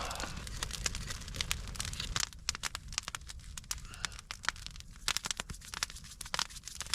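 Campfire coals crackling: a dense crackle for about the first two seconds, then scattered sharp pops and ticks.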